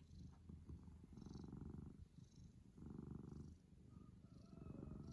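Domestic cat purring close up, the purr swelling and easing in a regular rhythm of breaths, each swell lasting about a second.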